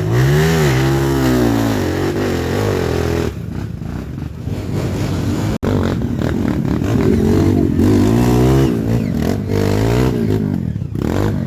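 Trail motorcycle engines revving up and down over and over, the pitch rising and falling in quick swells, with a sudden break about halfway through.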